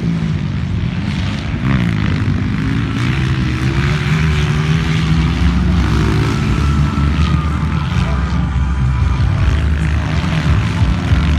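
Several 200cc motocross bikes' engines running on the track, their pitch rising and falling as riders work the throttle.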